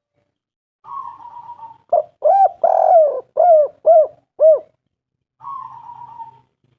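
Spotted dove cooing: a burry rolling note, then a quick run of about six short arched coos with one longer coo among them, and another rolling note near the end.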